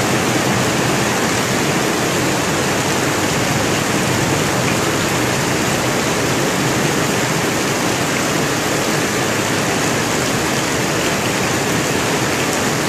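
Heavy rain pouring onto a flooded street, a steady even hiss of rain and water.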